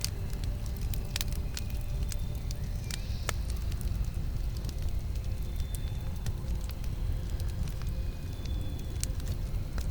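Campfire burning: a steady low rumble under scattered sharp crackles and pops from the burning wood.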